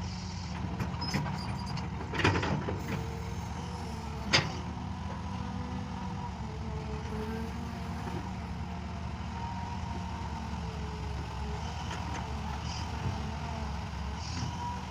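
Tractor engine running steadily under load, with two sharp knocks about two and four seconds in.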